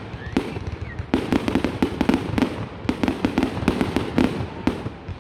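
Fireworks going off in quick succession: many sharp bangs, a few at first, then several a second from about a second in.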